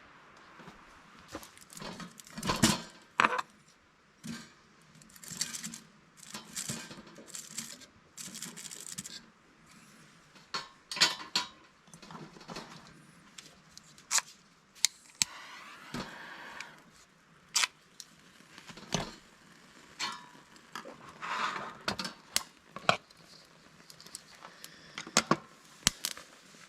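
Camping gear being handled by hand: a string of irregular knocks and light metallic clinks, with rustling in between.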